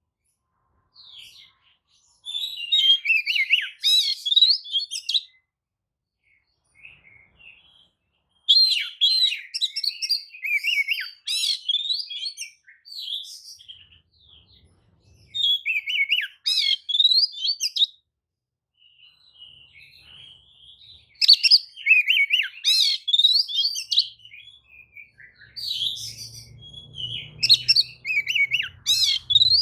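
Oriental magpie-robin singing: bouts of rapid, varied whistled and chattering phrases, broken by pauses of a second or more. This is the agitated song used as a lure to provoke other magpie-robins.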